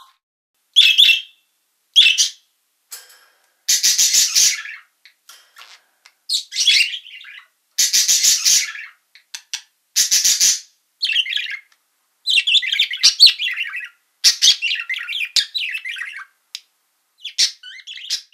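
Macaws giving harsh, raspy squawks, one after another with short gaps. Some are long single screeches and others come in quick chattering runs.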